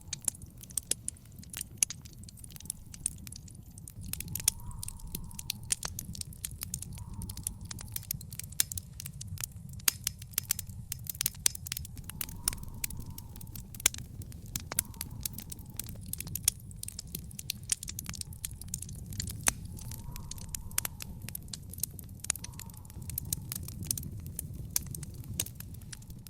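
Wood fire in a fire pit crackling: dense, irregular sharp pops and snaps over a steady low rumble of the flames.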